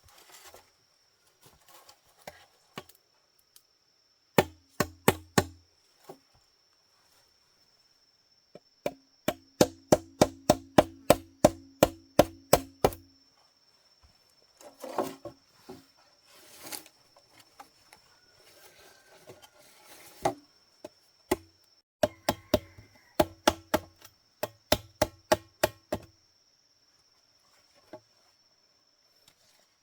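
Blade chopping on wood in runs of sharp strikes, about four a second at its fastest, with a low ringing note under each blow.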